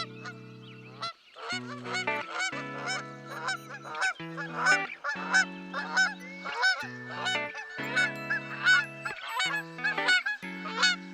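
A flock of flamingos honking, many short goose-like calls crowding over one another, over background music with held low chords.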